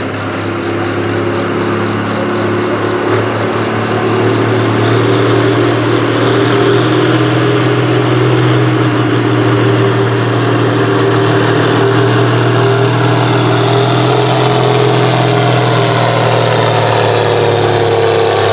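Case 1175 farm tractor's engine working under full load as it pulls a weight-transfer sled down the track: a loud, steady drone that builds over the first few seconds and then holds.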